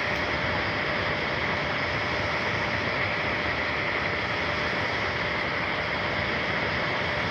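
3D printer running mid-print: a steady whirring hiss with a faint constant hum underneath.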